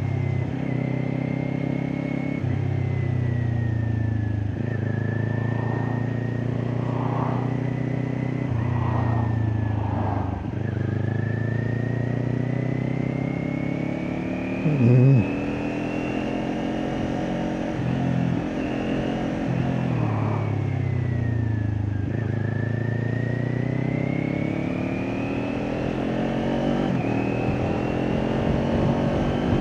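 Kawasaki Ninja 400's parallel-twin engine through an Akrapovic exhaust, heard while riding: the revs climb and drop several times as it pulls through the gears and shifts. A brief loud burst about halfway through.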